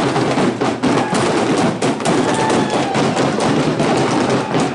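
Firecrackers going off in a rapid, irregular string of sharp bangs over a dense crowd din.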